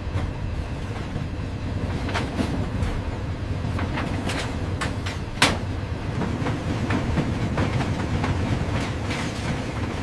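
Heavy scrap-handling machinery rumbling steadily as scrap metal shifts and drops, with scattered metal clanks and knocks and one sharper clank about five seconds in.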